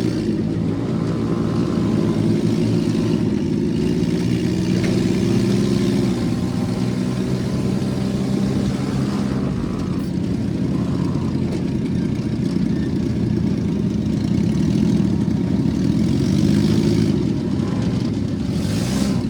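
Engine running steadily under way, its pitch shifting a little as the throttle changes, with a constant rush of noise over it.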